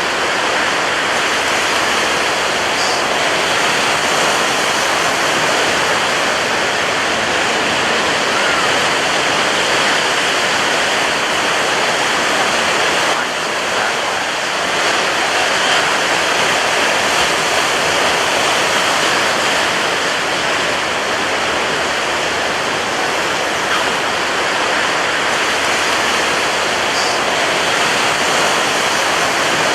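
Ocean surf breaking on a beach: a dense, continuous wash of waves with no separate crashes standing out, easing slightly for a moment about halfway through.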